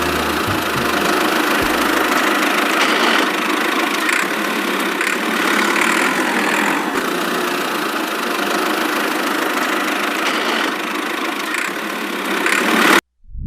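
A small motor running steadily, a dense, even mechanical noise without a clear pitch, with low music fading out about two seconds in. It stops abruptly near the end.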